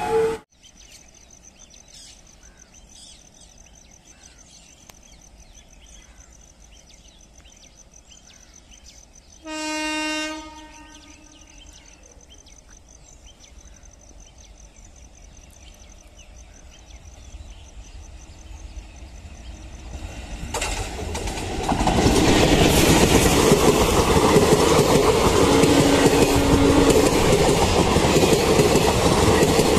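A WAP-4 electric locomotive sounds a single horn blast of about a second and a half as the express approaches. The train's rumble then builds steadily, and for the last third the passenger coaches rush past close by, their wheels clattering over the rail joints.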